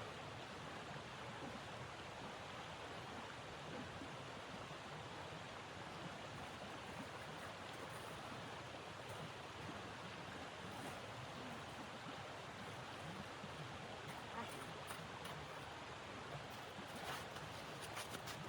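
Steady hiss of blizzard wind, with a few faint crackles near the end.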